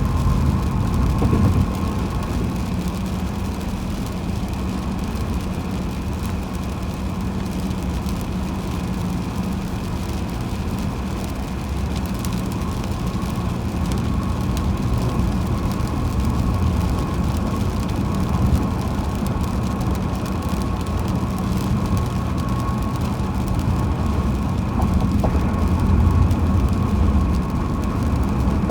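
Steady road noise of a car driving at highway speed: a low rumble with a faint, thin, steady whine over it.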